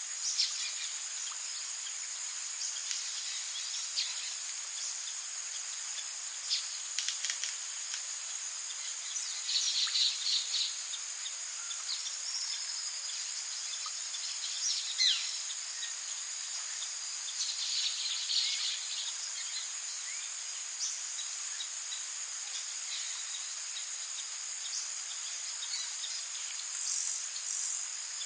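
Tropical rainforest ambience: a steady high-pitched insect drone, with a few short bird calls breaking in and a single falling whistle about halfway through.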